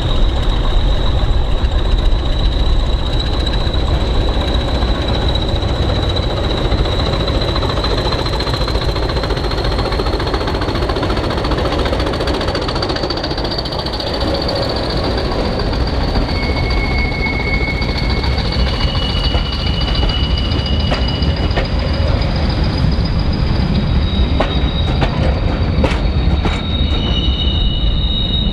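A train running on the track with a steady heavy rumble and a long high whine that drifts slightly up in pitch. Short extra squeals from the wheels come and go in the second half.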